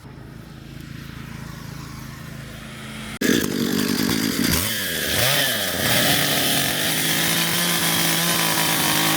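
Small two-stroke engine of a handheld garden power tool, idling low, then throttled up suddenly about three seconds in to a loud high-revving whine whose pitch rises and falls as the throttle is worked.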